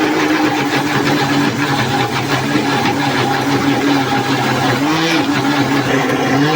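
A small electric motor, likely a kitchen appliance, running steadily with a hum and a rushing noise, starting abruptly; its pitch wavers briefly a couple of times near the end.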